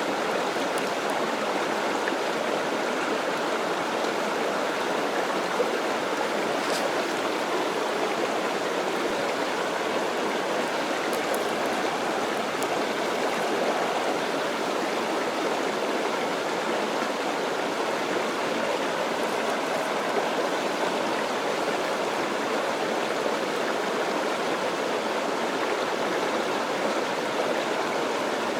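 Mountain stream running loudly and steadily over rocks.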